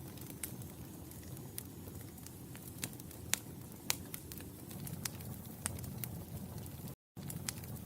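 Wood fire burning in a fireplace: a steady low rumble of flame with scattered sharp crackles and pops, two louder pops in the middle. The sound cuts out completely for a split second near the end.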